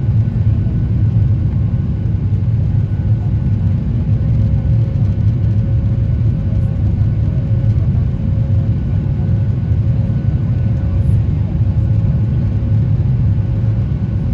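Boeing 737 jet engines and airframe making a steady, loud low rumble, with a faint steady whine on top.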